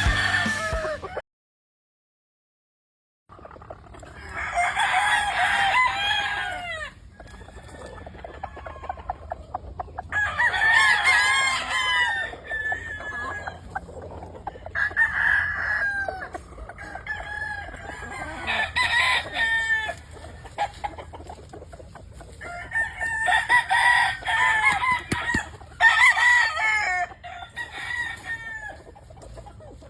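Several gamefowl roosters crowing one after another in overlapping bouts, with quieter fowl sounds between. Music cuts off just after the start, and the crowing begins after about two seconds of silence.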